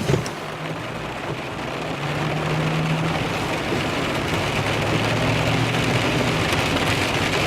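A vehicle's engine running as it drives along in the rain, heard from inside the cab, with a steady hiss of rain and tyre noise over a low engine hum. The engine note drops a little about halfway, and there is a short knock right at the start.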